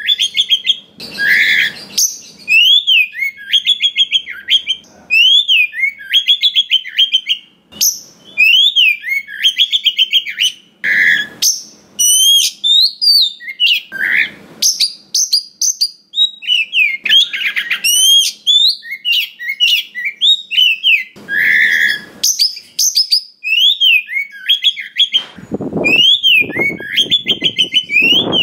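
Oriental magpie-robin (kacer) singing a loud, fast, varied song of whistled notes, upslurs and chattering trills, phrase after phrase, with a few short harsher calls mixed in.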